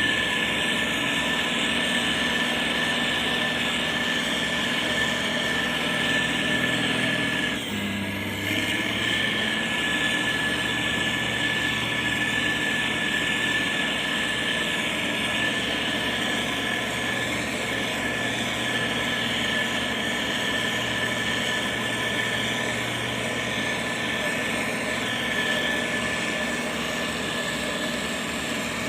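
Diesel engine of heavy road-building machinery, a motor grader or road roller, running steadily under work, with a steady high whine over the engine note. About eight seconds in the sound dips briefly and the engine's low note shifts before settling back.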